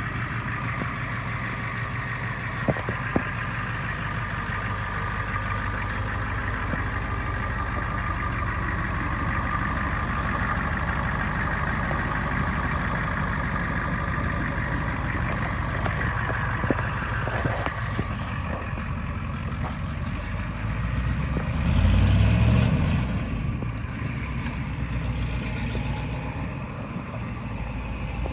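International 1654 truck engine running steadily, with a brief rev about three quarters of the way through where the pitch rises and falls back.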